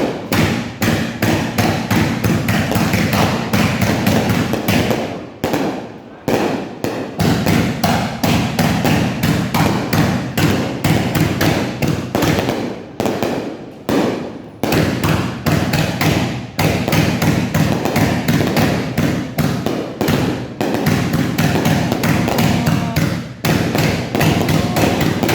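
Fireworks going off in a dense, rapid barrage of bangs, several a second, broken by a few short lulls.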